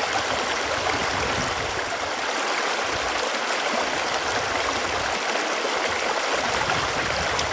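Running water flowing steadily: an even, unbroken watery noise.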